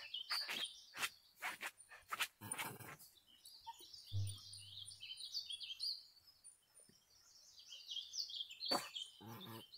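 Small birds chirping in the background, with a quick run of sharp taps in the first three seconds and brief low hum-like sounds about four seconds in and near the end.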